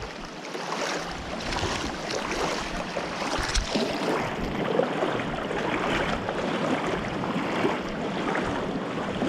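Rushing water: a steady, even wash of flowing stream water that carries on without a break.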